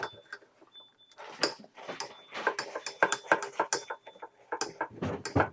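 A utensil clicking, knocking and scraping against a saucepan in quick irregular strokes as a thick flour paste is stirred.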